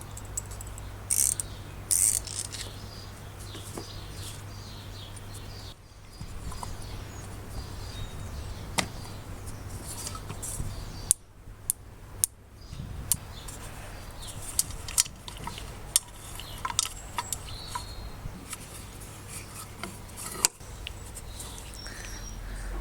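Scattered clicks, taps and light knocks of small parts and tools being handled during workshop work, over a steady low hum. The sound breaks off abruptly a few times.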